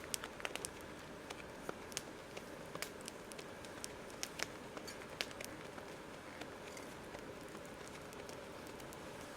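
Wood campfire crackling: irregular sharp pops and snaps over a low steady hiss.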